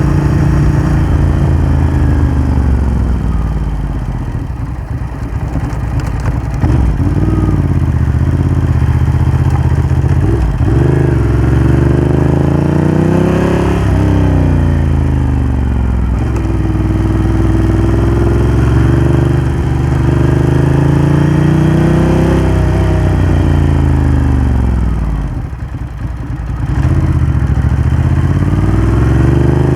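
Ducati Hypermotard 1100's air-cooled L-twin engine through a Termignoni exhaust, under way: the pitch repeatedly rises and falls as the rider opens and closes the throttle, with a short easing-off near the end.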